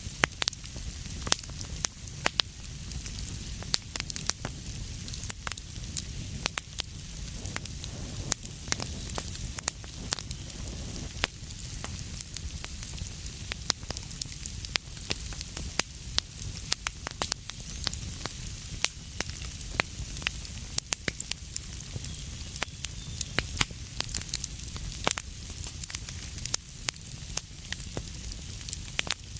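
Wood fire burning in a fireplace: a steady hiss and low rumble with many sharp, irregular crackles and pops throughout.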